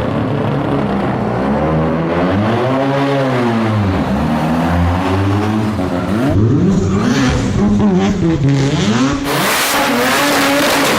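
Rotary-engined car revving hard, its engine pitch sweeping up and down again and again. Near the end a harsher, hissing noise joins in over the engine.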